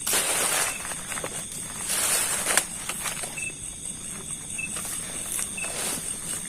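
Footsteps rustling through undergrowth, loudest at the start and again about two seconds in, over a steady high-pitched drone of night insects such as crickets. A short high chirp repeats about once a second in the second half.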